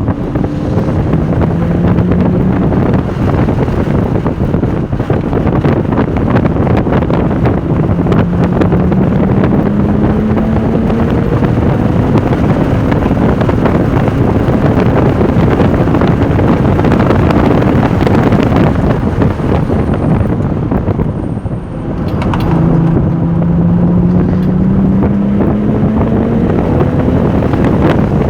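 Porsche 996 Turbo's twin-turbo flat-six engine accelerating hard on track, its pitch climbing repeatedly as it pulls through the gears, under heavy wind noise. It eases off briefly about 21 seconds in, then climbs again.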